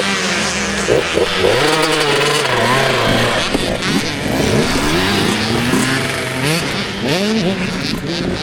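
Several motocross bike engines revving at once, their pitches rising and falling and overlapping.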